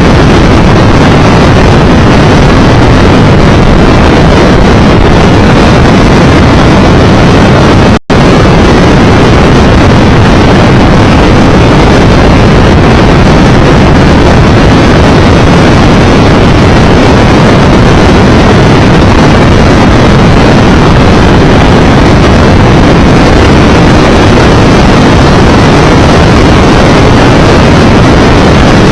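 Motorcycle riding at road speed, a Triumph Tiger Explorer 1200: heavy wind noise on the microphone masks the engine as a steady rush. The sound drops out for an instant about eight seconds in.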